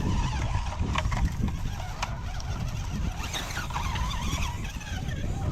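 Electric motor of a radio-controlled rock crawler whining, rising and falling in pitch with the throttle as it tries to climb. Wind rumbles on the microphone underneath.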